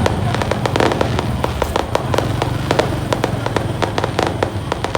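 Fireworks going off in a rapid, irregular string of sharp pops and cracks, several a second.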